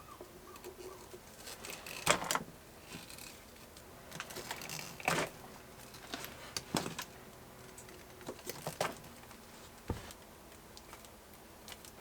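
Scattered light clicks, knocks and rattles of small tools and parts being handled, with sharper knocks about two and five seconds in.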